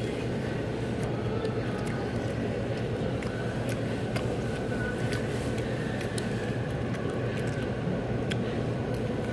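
Steady low rumbling background noise with a constant hum and scattered small clicks and taps.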